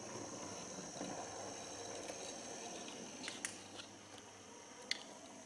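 OO gauge model locomotive's small electric motor and gears running slowly, a faint steady whir with a thin high whine, and a few sharp clicks about three and a half and five seconds in.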